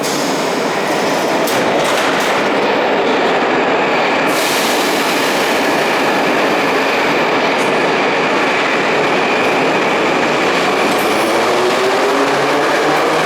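Ezh3/Em-508T metro train running in the station: a loud, steady rumble of wheels on rails. Near the end a whine rises in pitch as the train gathers speed.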